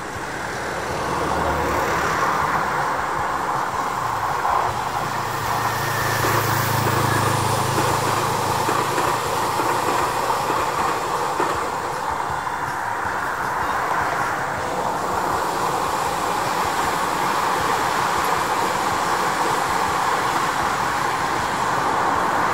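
Tobu N100 series Spacia X electric express passing on the line: a steady rumble of wheels on rails that swells over the first two seconds. A low hum runs for a few seconds about five seconds in, and the rumble carries on as another train approaches near the end.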